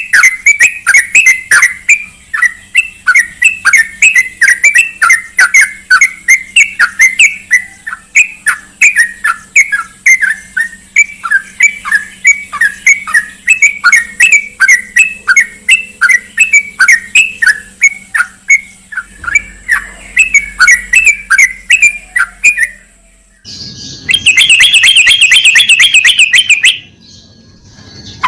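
Yellow-vented bulbul (trucukan) calling: a fast, steady string of sharp repeated chirps, about three or four a second. Near the end it switches to a brief faster, higher trill before a short pause.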